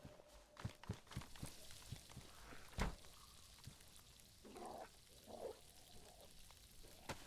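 Faint short whines or yips from wolves, two of them a little after the middle, among scattered light clicks and one sharper knock before them.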